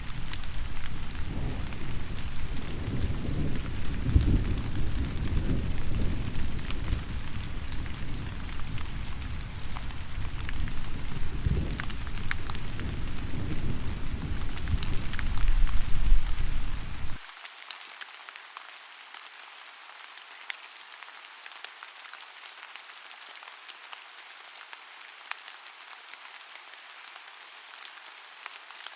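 Steady rain falling with scattered individual drop ticks, over a deep low rumble. The rumble cuts off abruptly a little past halfway, leaving only the lighter hiss of the rain.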